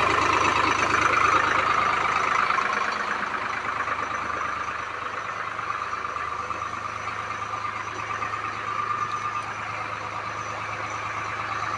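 Tractor engine running steadily. It is loudest for the first few seconds, then settles to a lower level.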